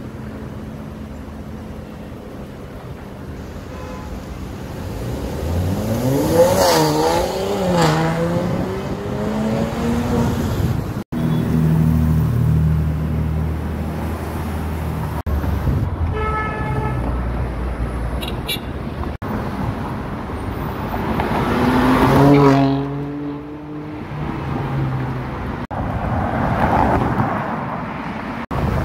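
Performance cars' engines revving and accelerating past on a city road, one after another. About a quarter of the way in, one engine's pitch climbs and drops through several gear changes. About three quarters through, another engine rises sharply as it passes.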